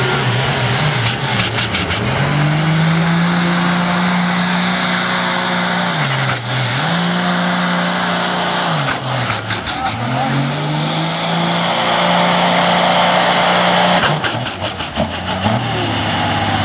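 A competition pulling vehicle's engine running hard at high revs through a pull, its pitch dipping sharply and recovering several times, with clusters of sharp crackles and a high whistle sweeping over it.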